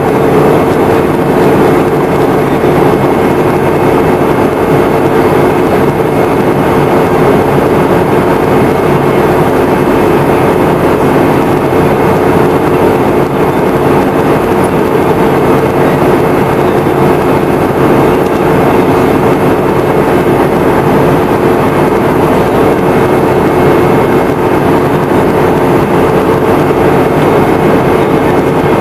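Steady cabin noise inside a Boeing 717-200 from a rear window seat: the tail-mounted Rolls-Royce BR715 turbofans running with a constant hum over a loud airflow rush, unchanging throughout.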